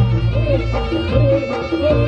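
Reog Ponorogo ensemble playing. A slompret, a shrill wooden reed trumpet, carries a wavering melody over steady drum and gong strokes.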